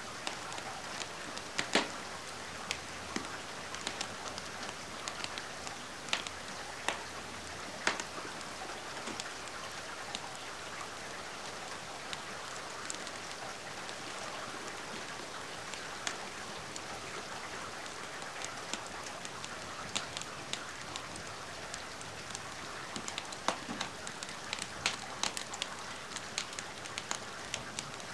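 Steady rain with a wood fire crackling: a constant hiss with scattered sharp pops, more of them near the start and again in the last third.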